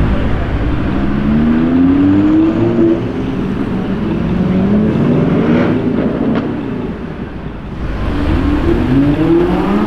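Audi R8 V10 Plus Spyder's naturally aspirated 5.2-litre V10 accelerating hard away, its pitch climbing through the revs, dropping at each upshift, then climbing again. The sound dips briefly about seven seconds in before rising again near the end.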